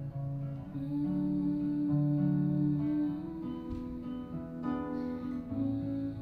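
Acoustic guitar playing ringing chords, an instrumental passage between sung lines of a folk song, amplified through a PA.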